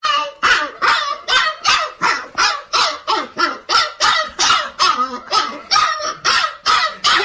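A dog barking over and over in a steady run, about three barks a second.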